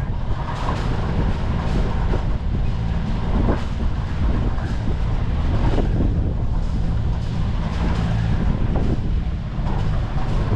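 A boat's engine running steadily, with wind gusting over the microphone in irregular surges.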